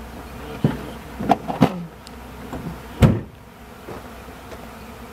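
Honey bee swarm buzzing, with a few short knocks and one louder thump about three seconds in.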